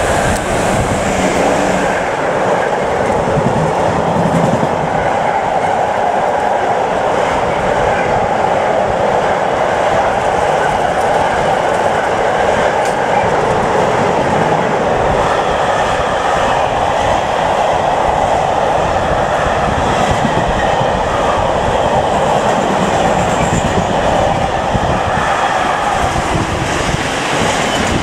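Freight train of long covered wagons passing through at speed: a steady loud rumble with the clatter of wheels over the rails.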